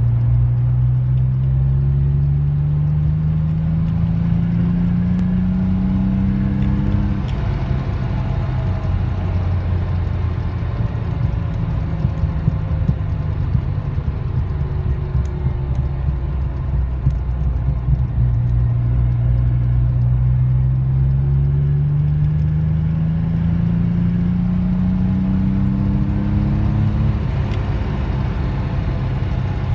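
Maserati BiTurbo's twin-turbo V6 and its new Powerflow twin rear silencers, heard from inside the cabin while driving. The engine note climbs steadily under acceleration, drops at a gear change about seven seconds in, holds steady for a while, then climbs again and drops at another gear change near the end.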